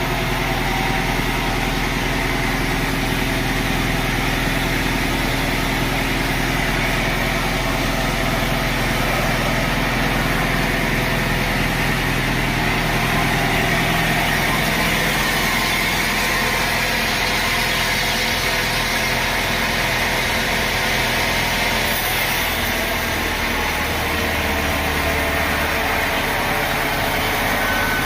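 Sawmill machinery running steadily, a continuous engine drone whose low note shifts about halfway through and again near the end.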